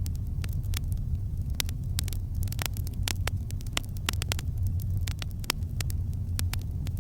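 Campfire burning: frequent sharp, irregular crackles and pops, several a second, over a steady low rumble of the fire.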